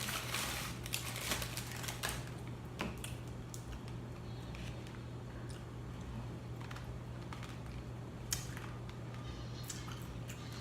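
Close-up eating sounds: irregular crisp clicks and crunches of chewing, densest in the first few seconds and again near the end, over a steady low hum.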